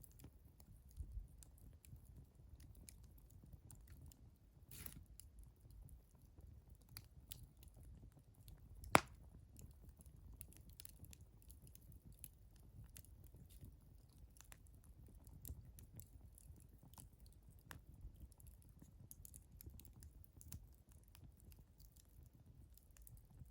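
Wood fire burning and crackling faintly, with scattered small pops and one sharp pop about nine seconds in.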